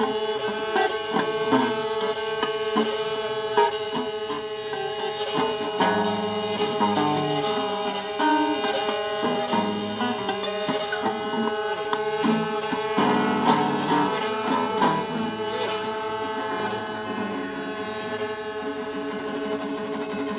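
Free-improvised music for violin and guitar played with objects: a steady droning tone held throughout, with short plucked and struck notes and clicks scattered over it.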